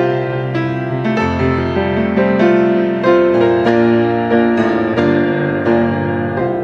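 Piano playing a slow, gentle melody with sustained chords and a bass note entering about a second in.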